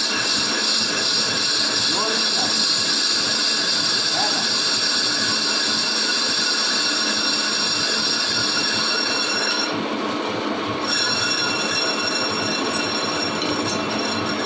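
Lathe turning a Suzuki APV cast-iron brake disc, the cutting tool on the disc face giving a steady high-pitched metallic squeal of many ringing tones. The top of the squeal drops out for about a second around ten seconds in.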